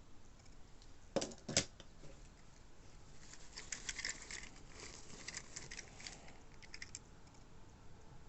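Two sharp knocks a little over a second in, then several seconds of crackling and clicking as plastic and cardboard packaging from 1:64 diecast model cars is handled.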